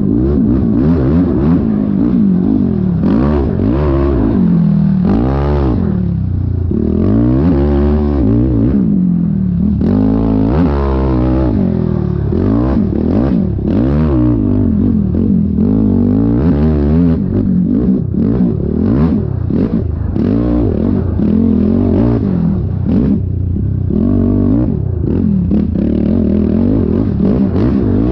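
Yamaha YFZ450R quad's single-cylinder four-stroke engine revving up and down over and over as it is ridden hard over rough, rutted ground, the pitch rising and falling every second or two.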